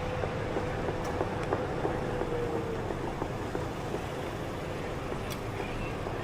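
Steady city traffic noise with a held tone that slides down in pitch about two and a half seconds in, and a sharp click near the end.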